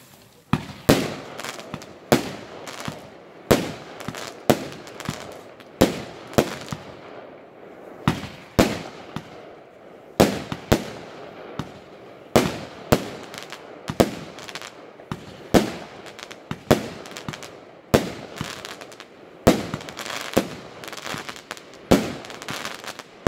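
Engelsrud 'Silver Night' firework cake with 25 mm tubes firing shot after shot. A string of sharp bangs comes a little more than once a second at an uneven pace, with a noisy hiss between the shots.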